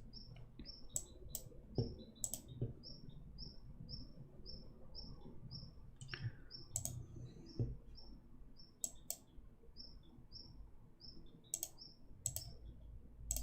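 Computer mouse clicks at irregular intervals while a 3D scene is worked on, over a faint short high chirp that repeats evenly about twice a second.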